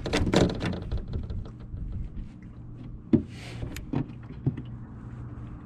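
Cooler lid being knocked and tugged at as it sticks and won't open: a clatter of knocks in the first second, then a few single knocks, over a steady low hum.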